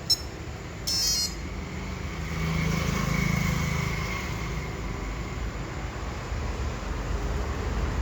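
Electronic beeps from a motorbike's keyless ignition unit: one short beep, then a quick run of chirps about a second in. After that a whirring noise swells for a couple of seconds and fades, over a steady low hum.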